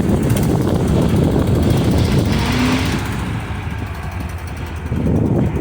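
A car engine running close by with a rapid, rough low chug while the car is slowly backed up.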